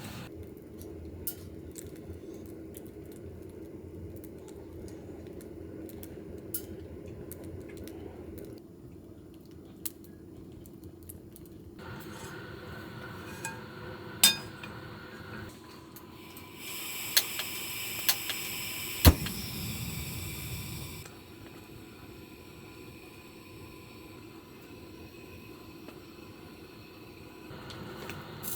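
Handling of camp cookware and utensils: pots, glass and cutlery clink, knock and scrape in a string of short shots, with a steady hiss for a few seconds in the middle and one sharp click about two-thirds through.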